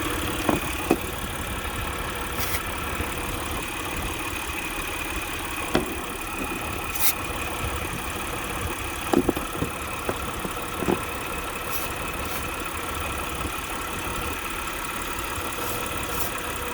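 Mitsubishi Pajero V6 engine idling steadily, with a few short sharp clicks along the way. The owner finds the engine's intake manifold leaking: it shakes and jumps when spray reaches the leak.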